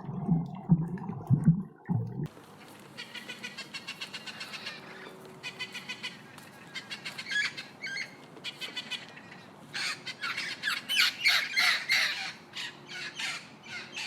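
A bird calling in rapid runs of short, harsh squawking notes, loudest in the second half. In the first two seconds, before a cut, there are a few low animal calls.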